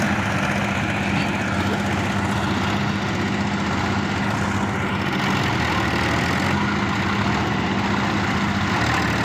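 Tractor diesel engine running steadily under load during a tractor tug-of-war pull.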